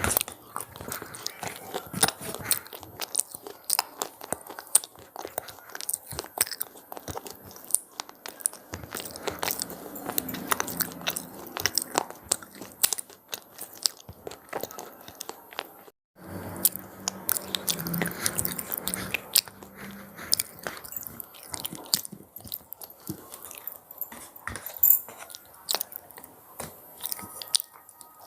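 Crunchy cheese-pizza snack being bitten and chewed close up, a dense run of crisp crackles and crunches, broken by a brief silent gap just past halfway.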